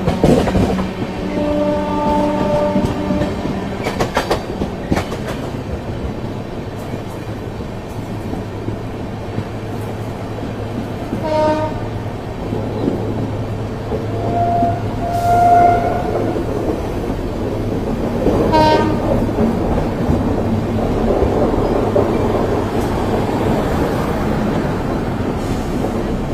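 Indian Railways express train running, its wheels clacking over the rail joints over a steady low hum. The horn sounds several times: a held blast about two seconds in, another around fifteen seconds, and short toots between.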